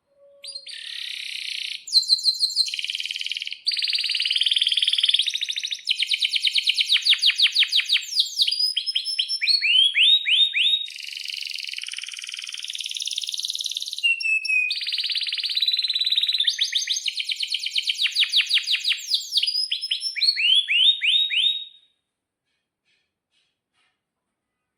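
Domestic canary singing a long, loud song of fast rolling trills and rapid sweeping chirps. The song stops suddenly about three seconds before the end.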